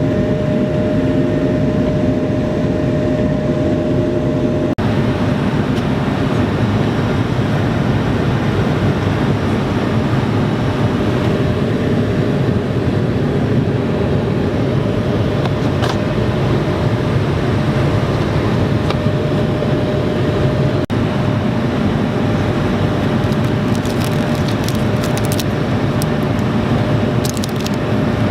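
Steady loud roar of an Airbus A220-300's Pratt & Whitney PW1500G geared turbofans and the rushing air around the fuselage, heard inside the passenger cabin, with a steady hum running through it. The sound changes abruptly about five seconds in, and a few crackles come near the end.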